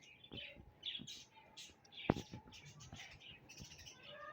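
Small birds chirping, with many short, high chirps overlapping in quick succession and a sharp click about two seconds in.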